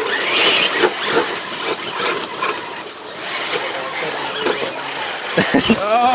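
Small electric RC crawler truck whirring and clicking as its drivetrain works over rock. Near the end comes a short squeal that bends in pitch.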